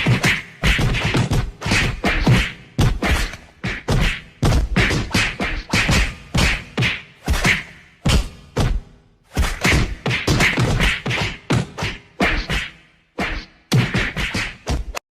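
A rapid series of punch and slap sound effects from a staged fistfight, about two to three hits a second.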